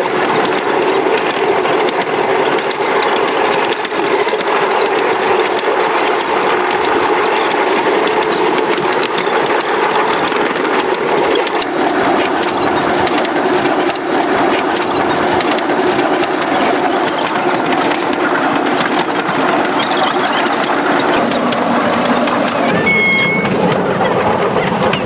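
Old train running along the track, heard on board: a steady engine drone with dense rattling and clatter from the wheels and carriage.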